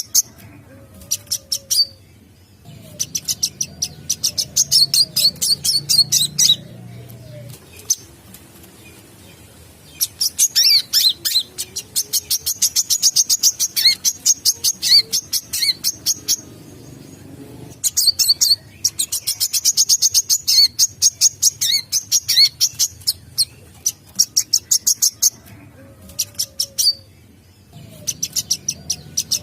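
Brown-throated sunbird song used as a lure call: rapid runs of high, sharp chirps, about ten a second, in bouts of several seconds broken by short pauses.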